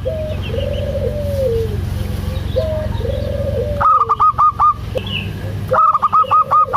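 Zebra dove (perkutut) cooing. Longer, arching lower coos alternate with quick runs of short, higher notes at about eight a second, one run about four seconds in and another starting near the end, over a steady low hum.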